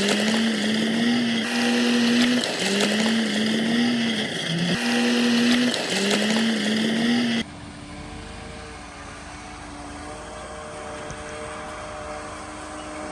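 Heavy diesel machinery engine running, its pitch stepping up and down with short rising glides. About seven seconds in it cuts abruptly to a quieter, steady engine drone.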